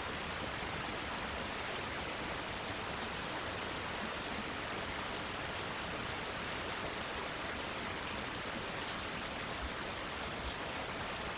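Steady rain falling, an even hiss with faint scattered drop ticks on leaves.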